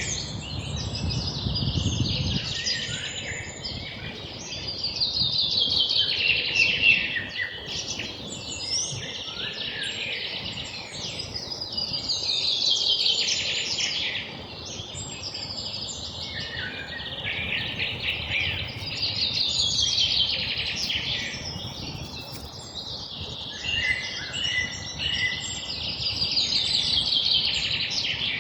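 Songbirds singing: a repeated song phrase, a fast trill falling in pitch, recurring about every three to four seconds, with other bird calls in between.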